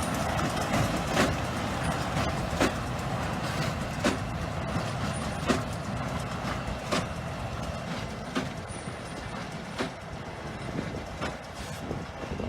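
New Holland T7225 tractor running a New Holland BigBaler 1290 large square baler: steady engine noise with a sharp knock about every second and a half, growing slightly fainter toward the end.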